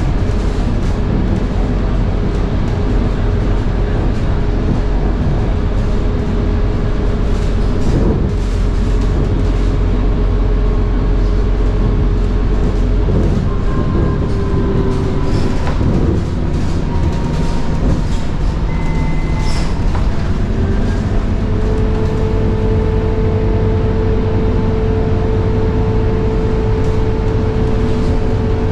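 Scania K230UB bus under way: a steady drone from its 9.3-litre Scania DC9 engine with the high-pitched whine of its ZF Ecomat 6HP504C automatic gearbox on top. The whine fades out about sixteen seconds in and comes back about five seconds later, with scattered rattles and knocks throughout.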